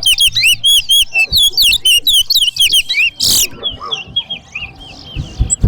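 Caged towa towa (large-billed seed-finches) singing fast strings of high, swooping whistled notes in a song competition. The song is dense for about three seconds, broken by a brief loud rushing noise, then goes on fainter and sparser.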